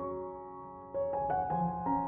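Soft background piano music: a slow melody over held chords, with new notes struck about a second in.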